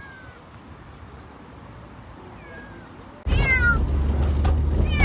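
A freshly trapped feral kitten meowing from inside a cat trap: faint falling meows at first, then loud, repeated meows from about three seconds in, over a sudden low rumble. The kitten is frightened.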